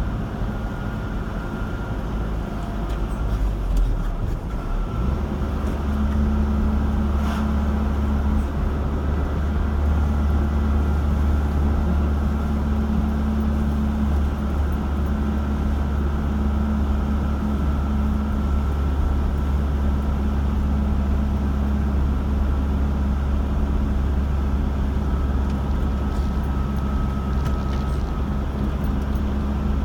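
Car engine and road noise heard from inside the moving car: a steady low drone that grows louder about five seconds in as the car picks up speed, then holds.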